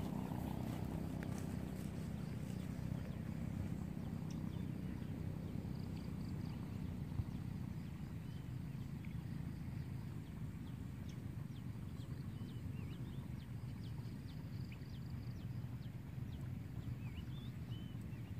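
Steady low rumble of wind on the microphone, with short high bird chirps scattered through it.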